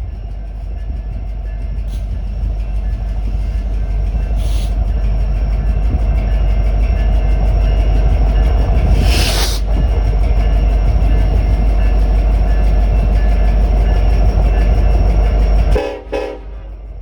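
BNSF coal train's diesel locomotives approaching and passing close by, a heavy rumble that builds and then drops off sharply near the end. A train horn sounds, with the crossing's electronic bell ringing faintly in the background.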